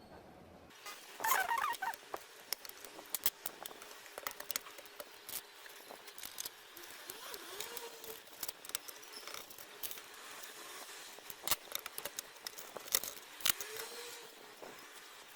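Irregular light clicks, taps and clatter of small hard objects being handled, with a denser burst of clatter about a second in.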